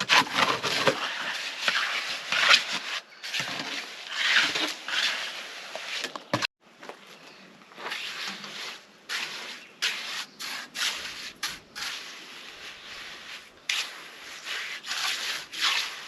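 Hand tool scraping over and over across concrete or stone in uneven strokes. The scraping breaks off abruptly about six and a half seconds in and resumes more softly.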